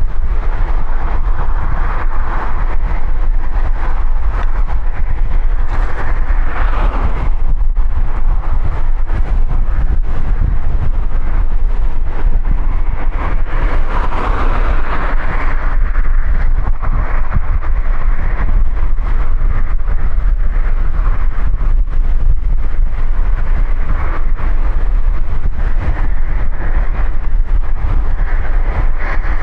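Strong wind buffeting the camera microphone, a continuous low roar, with the tyre rush of passing highway traffic swelling and fading three or four times.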